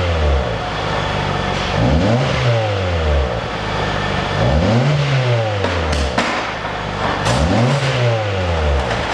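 Kia Forte Koup engine free-revving through a dual valved (variable) exhaust. Three short revs, each rising and falling in pitch, about every two and a half seconds, with the tail of a fourth dropping back at the start.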